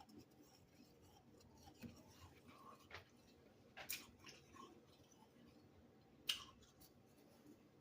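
Faint, sparse crunches of freezer frost: four short crunches, the loudest about six seconds in, over near silence.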